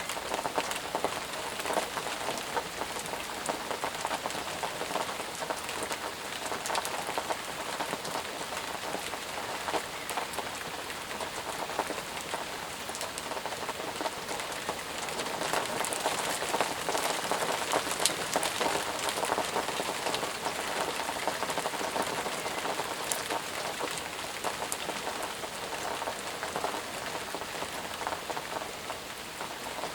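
Steady heavy rain falling on a surface, with many close individual drops pattering over the continuous hiss.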